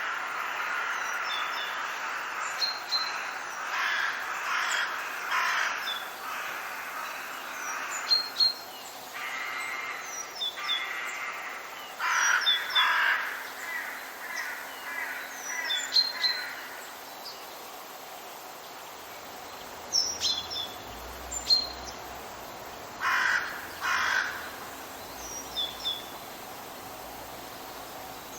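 Forest birds calling: loud harsh calls, often two in quick succession, with short high chirps of small birds in between.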